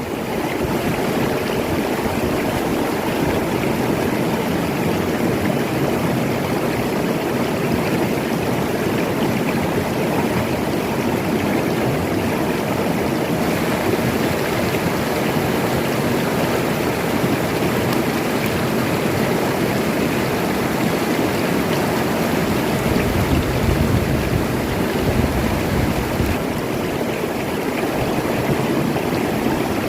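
River water flowing, a steady rushing with no breaks, and a deeper rumble for a few seconds about two-thirds of the way through.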